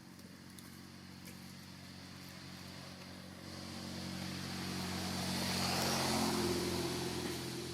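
A motor vehicle passing by: its engine hum grows louder over a few seconds, peaks about six seconds in, then starts to fade.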